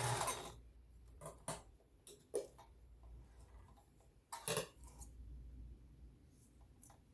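Kenmore sewing machine running, stopping about half a second in, followed by a few light clicks and knocks of handling at the machine.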